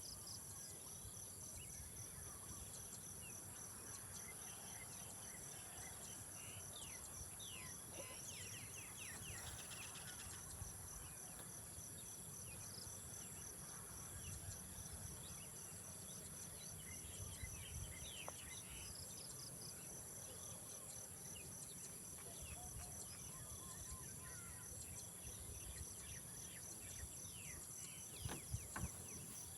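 A steady, high-pitched insect chorus with a finely pulsing trill running through it, and scattered short chirps. A low rumbling noise sits underneath, and a few soft knocks come near the end.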